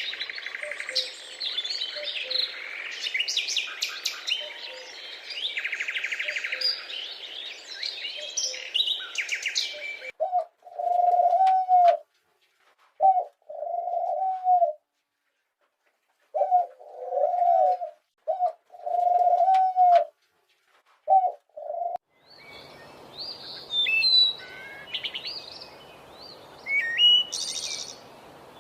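Many small birds chirping and twittering together, busy and overlapping. About ten seconds in this gives way to low cooing calls in short phrases separated by silences. Near the end the chirping returns over a faint steady hiss.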